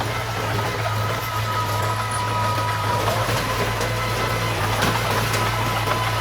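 Diesel engine of heavy earthmoving machinery running steadily with a low hum, a faint steady high-pitched whine over it.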